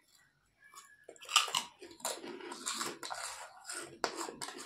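Close-up chewing and crunching of food, a dense crackle of mouth noises with a loud crunch about a second and a half in.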